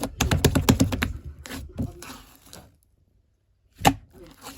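A quick run of sharp clicks and knocks, several a second, that thins out and stops, then a single sharp knock near the end.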